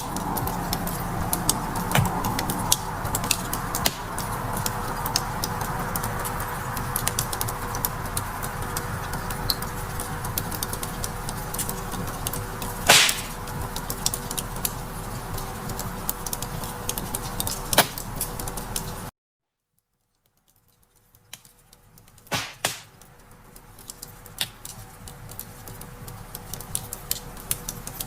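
Wood fire crackling, with irregular snaps and a few louder pops. The sound cuts out abruptly a little past two-thirds of the way through, stays silent for about a second and a half, then fades back in, as at the loop point of a recording.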